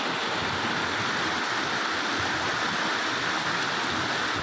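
Fast-flowing floodwater rushing past under heavy rain, a steady even noise with no let-up.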